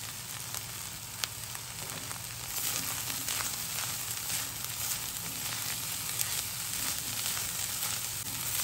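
Diced green beans and plant-based ground meat sizzling as they are stir-fried in a nonstick pan with a silicone spatula. The sizzle grows a little louder about two and a half seconds in.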